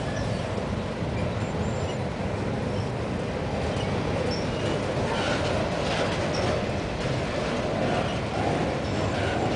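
Freight train of enclosed autorack cars rolling past, a steady rumble and rattle of wheels on the rails.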